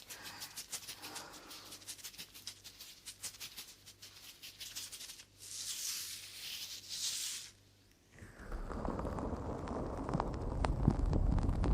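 ASMR trigger sounds close on a microphone: rapid light tapping or clicking, then two hissing bursts, then a short pause and a louder, crackly rustling that swells near the end.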